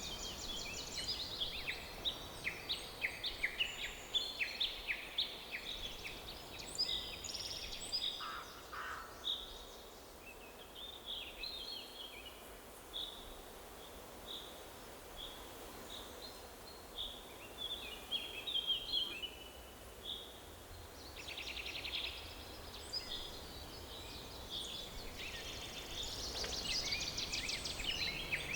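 Several songbirds singing over a faint steady background hiss. Quick trills and short whistled notes overlap densely in the first several seconds and again near the end, with sparser single phrases in between.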